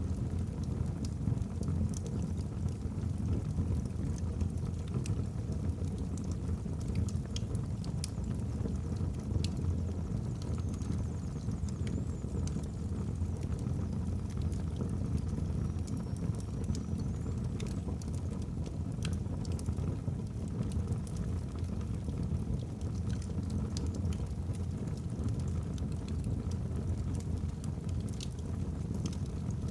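Wood fire burning in a fireplace: a steady low rumble of flames with scattered sharp crackles and pops from the logs, and a faint high whistle twice in the middle.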